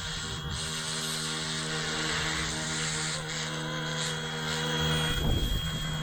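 Small remote-control helicopter's electric motor and rotor whirring steadily, a constant whine over a hiss. A rougher low rumble joins about five seconds in.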